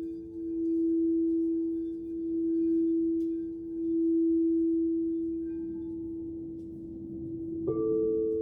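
Crystal singing bowls ringing with two steady, overlapping tones that swell and fade in slow waves about every second and a half. Near the end another bowl comes in with a small click and a higher tone.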